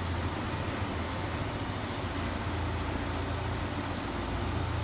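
A motor vehicle's engine running steadily with a low hum, over a steady noisy haze.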